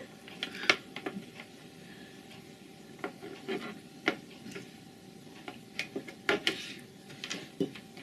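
Forks tapping and scraping on plates: scattered small clicks, taps and rubbing.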